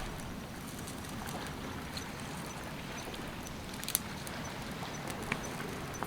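Newly lit kindling campfire crackling, with scattered sharp pops, over a steady rushing background noise.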